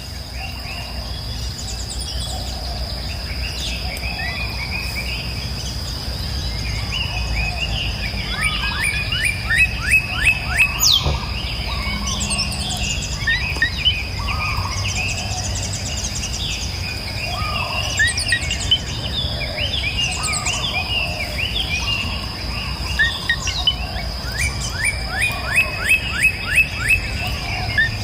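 Several wild birds chirping and singing. Twice, a bird gives a quick run of sharp down-slurred notes, about five a second, and these are the loudest sounds. A steady high-pitched tone and a low rumble run underneath.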